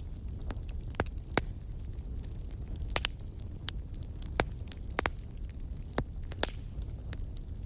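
Wood fire in a fireplace burning with a steady low rumble and irregular sharp crackles and pops, about a dozen of them.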